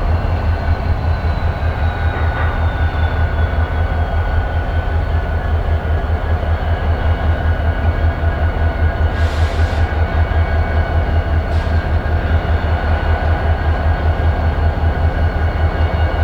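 Diesel locomotive engine running with a steady, rapidly pulsing low throb, with two short hisses about nine and eleven seconds in.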